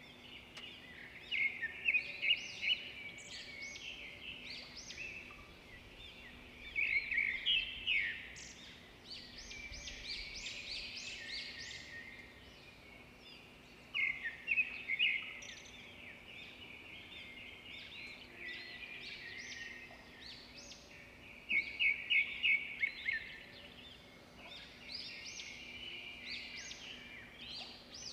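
A songbird singing, in repeated bursts of rapid chirps and trills with short pauses between them, over a faint steady hum.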